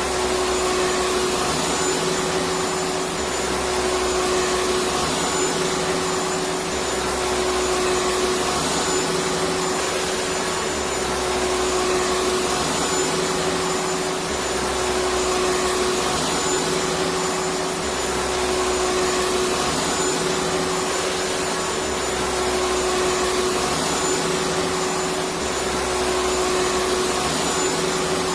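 Electric vacuum cleaner running steadily: an even rushing noise with a constant mid-pitched hum.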